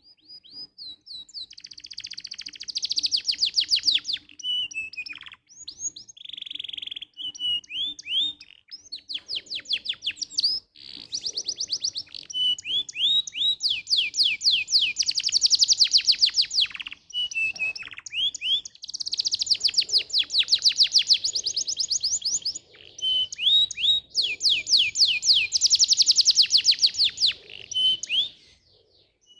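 Domestic canary singing a long song of fast rolled trills, phrase after phrase of rapidly repeated high notes with short pauses between them.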